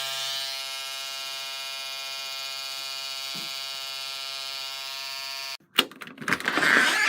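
A steady electronic buzzing tone that cuts off abruptly about five and a half seconds in, followed by a few sharp clicks and knocks.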